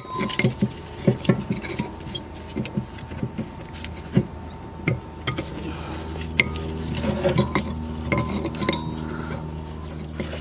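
Metal clicks and clinks of a new brake pad being pressed into a car's disc brake caliper, the pad's metal clips and backing plate knocking against the caliper in a run of short irregular taps.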